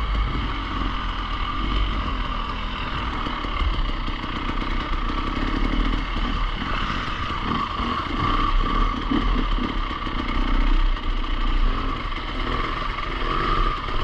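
Enduro motorcycle engine running, its level swelling and dipping.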